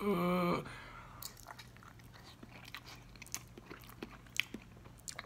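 A short vocal sound, then a person biting into and chewing a balut, a boiled fertilized duck egg with the embryo inside: faint, irregular clicks and crunches of chewing, a few louder than the rest.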